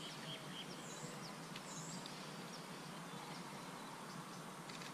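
Quiet outdoor ambience: a steady faint hiss with scattered short, high bird chirps.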